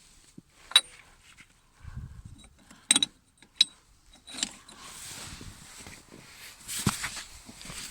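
Metal hand tools clinking and rattling against a car's front wheel hub: three sharp metallic clinks with a ringing tail in the first few seconds, then a longer stretch of scraping and rattling with a knock near the end, as a 27 mm wrench is set to the hub nut.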